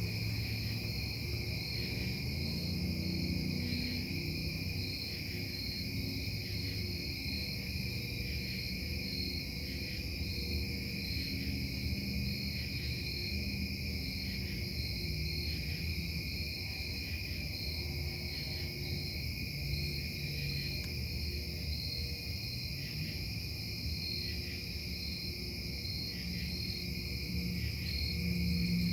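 Continuous industrial drone from the Casting Solutions casting plant, heard at night from a bedroom: a low hum whose tones slowly shift, under a steady high-pitched whine. A high chirp pulses about once a second throughout.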